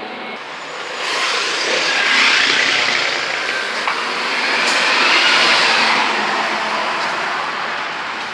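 Scania N230UD bus engine under hard load with a loud, vacuum-cleaner-like 'hoover' whine from the turbocharger. It gets louder about a second in, and the whine rises and then falls back around the middle.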